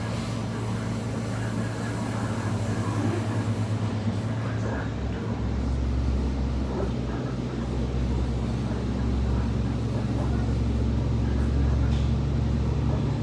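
SMART diesel multiple unit heard from on board: the diesel engine running with a steady low hum, growing louder about five seconds in, over the rumble of the train.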